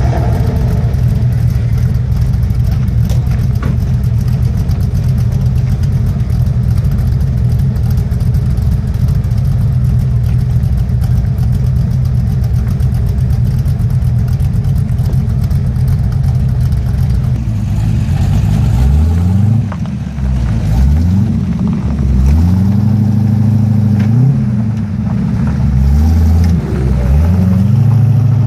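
AC Cobra V8 engine idling steadily for the first two-thirds, then revved in a series of throttle blips, each rising and falling in pitch, one held a little longer.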